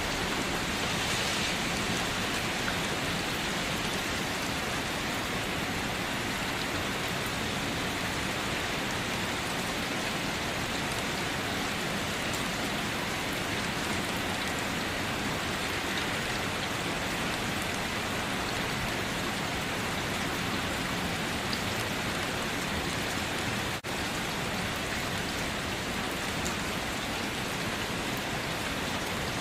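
Steady rain falling, an even hiss with no thunder, with one split-second dip in level about three-quarters of the way through.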